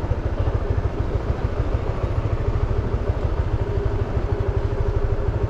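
Steady low rumble of a vehicle on the road, with a faint hum coming in about two seconds in.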